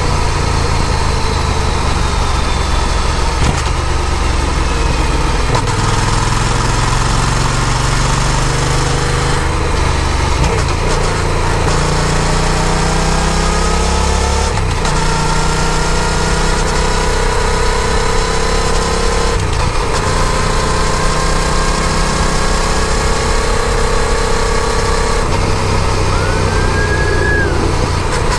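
Yamaha FZ-07 parallel-twin motorcycle engine running under way with a steady rush of wind. The engine note steps and slides in pitch several times, around 5, 12, 15 and 25 seconds in, as the revs change.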